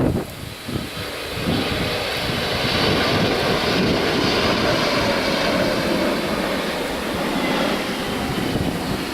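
Jet airliner's engines, a loud rushing roar that swells over the first couple of seconds and then holds, with wind buffeting the microphone at the start.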